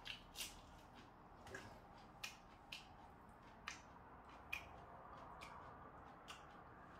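Quiet eating sounds: short wet smacks and clicks of chewing, about nine at uneven intervals, over faint room tone.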